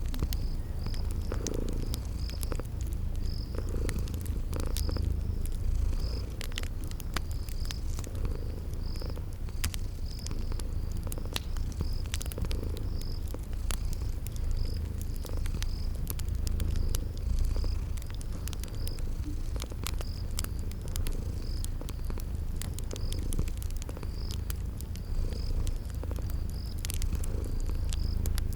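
A domestic cat purring steadily with a deep rumble, mixed with the scattered pops and crackles of a wood fire and a cricket chirping about once a second.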